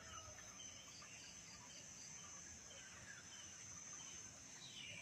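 Near silence with a faint, steady, high insect trill of crickets, and a few faint bird chirps, one sliding downward near the end.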